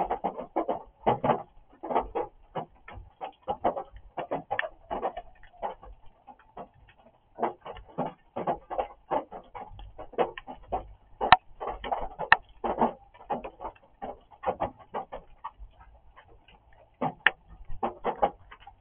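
Rain drumming on a roof, heard from inside a barn: an unbroken patter of irregular, closely spaced taps, with three sharper, louder hits in the second half.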